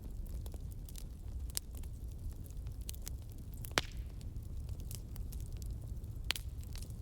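Wood fire crackling in a fireplace: a low steady rumble of burning with scattered sharp pops, a loud one just before 4 seconds in and another a little after 6.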